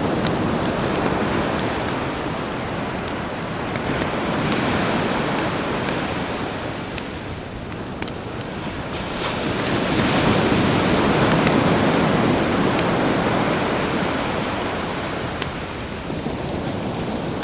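Sea waves washing in, the surf swelling and fading over several seconds, loudest about ten seconds in, with the sharp crackling pops of a campfire scattered through.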